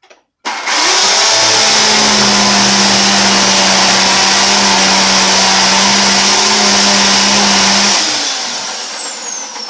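Black & Decker GK1640 electric chainsaw switched on and running hard, cutting into dry timber, for about seven seconds. Its trigger is then released and the motor winds down with a falling whine near the end.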